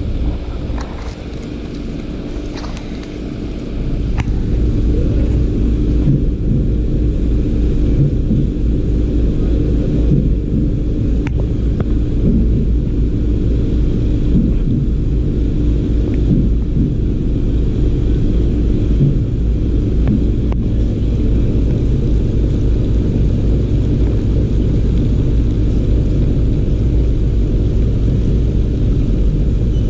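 Steady low mechanical rumble with a constant hum, growing louder about four seconds in and then holding steady.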